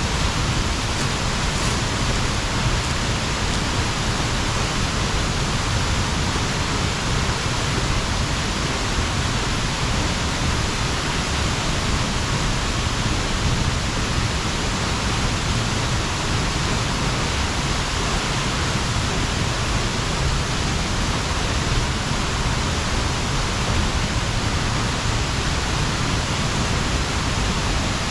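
Waterfall pouring into its plunge pool, heard close up: a loud, steady rush of water.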